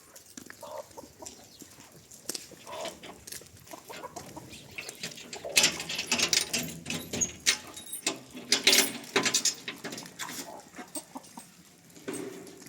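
Chickens clucking. About halfway through comes a run of loud, sharp clattering and scratching noises lasting a few seconds.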